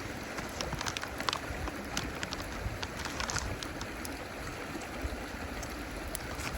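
Steady outdoor rush of wind on the microphone and running water, with scattered light clicks and crackles.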